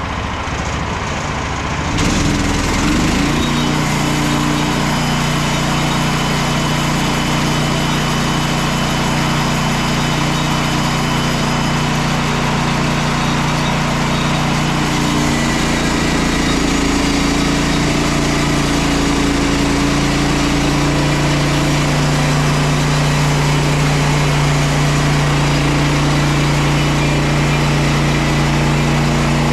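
Petrol engine of a Frontier OS27 portable bandsaw mill running steadily while milling larch logs. It gets louder about two seconds in, and its pitch shifts slightly a couple of times later on.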